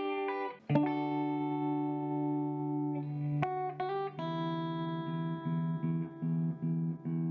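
Guitar music: a long held chord rings for a few seconds, then after a quick change a series of short repeated notes follows.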